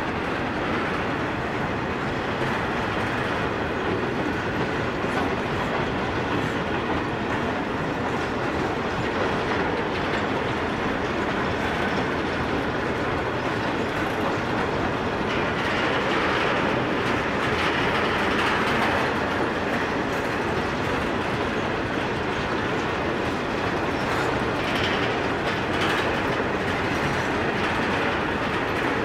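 Freight train of grain hopper wagons rolling past: a steady rumble and clatter of steel wheels on the rails, a little louder and harsher about halfway through.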